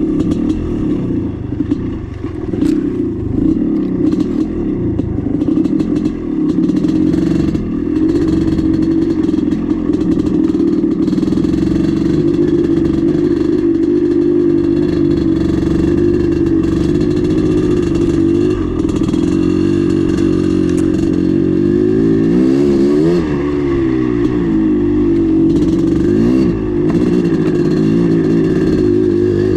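Maico 440 two-stroke single-cylinder dirt bike engine running under load, the throttle opening and closing, with quick rises and falls in pitch a little past the two-thirds mark. Sharp clacks come through in the first several seconds.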